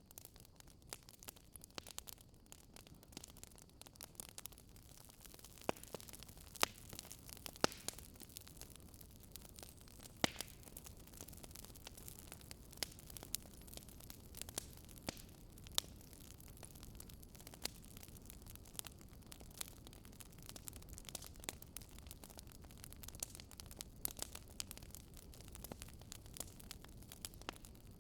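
Wood fire burning with irregular sharp crackles and pops over a low hiss.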